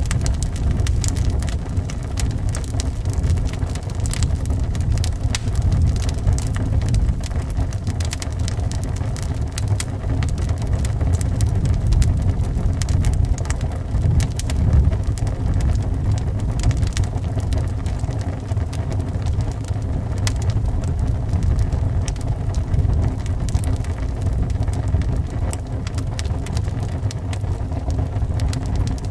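Wood fire crackling in a fireplace, a dense run of sharp snaps and pops, over a steady low rumble of wind blowing.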